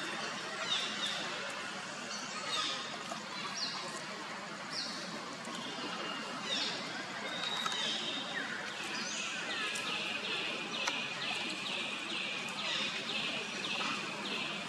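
Bird calls: scattered short falling chirps, then a fast even series of about three falling notes a second from about nine seconds in, over steady outdoor background noise.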